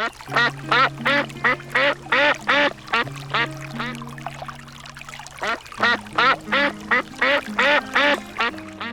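Duck quacking in a fast series of short calls, about three a second, with a brief lull midway.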